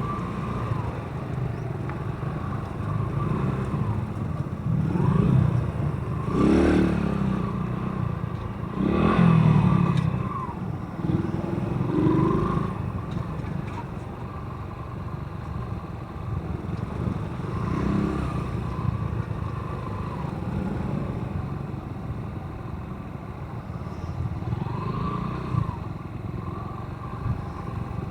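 Motorcycle running on the road, its engine and road noise continuous, with louder swells about six and nine seconds in.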